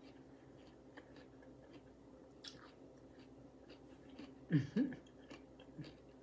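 A person chewing a bite of crispy fried Cornish hen with the mouth covered, with soft, scattered crunches. About four and a half seconds in come two short hummed "mm" sounds in the voice.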